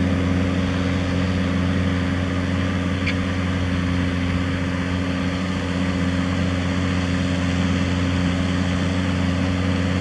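Tractor engine running steadily at a constant speed while pulling a plough through a field.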